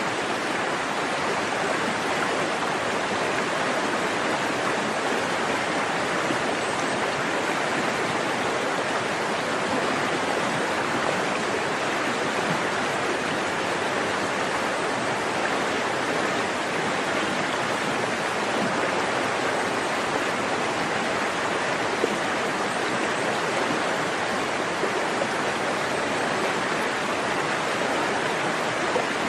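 Forest stream flowing in a steady, unbroken rush of water.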